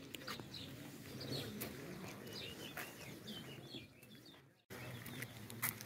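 Small birds chirping faintly over a low outdoor background hum. The sound drops out briefly about four and a half seconds in.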